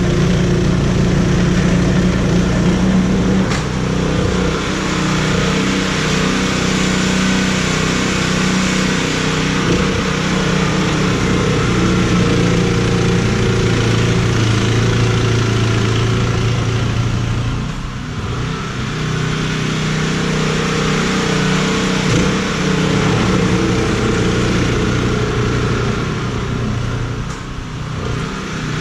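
An engine running steadily, with a dense rushing noise over it; the sound eases briefly twice, about two-thirds of the way through and again near the end.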